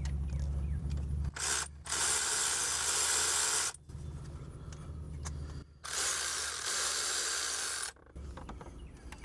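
Ratchet wrench clicking in two quick runs of about two seconds each, with a low hum underneath at the start.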